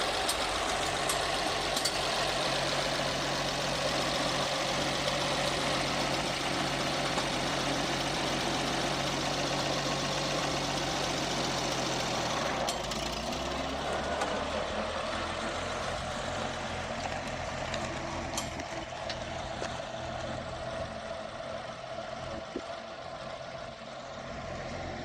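Antique farm tractor engine running steadily. About halfway through it eases off, and the sound then grows gradually quieter.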